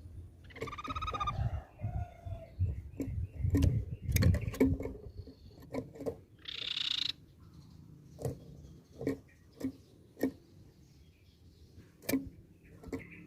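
Crescent-chested babbler (tepus pipi-perak) calling: a short ringing note with many overtones about a second in and a harsh rasping call around seven seconds, among many sharp clicks.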